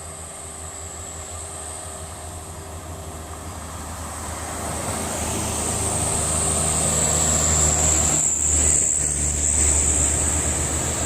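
Diesel truck climbing a steep grade, its engine running under load and growing steadily louder as it draws near, with a high steady whine above the engine. The sound drops briefly about eight seconds in.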